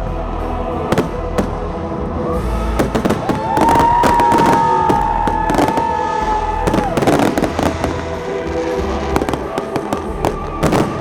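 Festive fireworks salute going off: a rapid, irregular string of bangs and crackles. Music plays at the same time, with a long held note in the middle.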